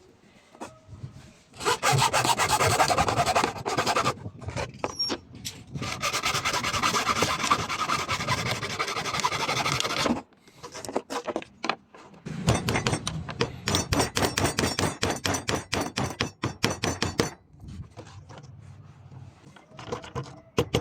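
Three spells of rapid rasping strokes from a hand tool scraping back and forth across a workpiece, with scattered clicks and knocks in the pauses between them.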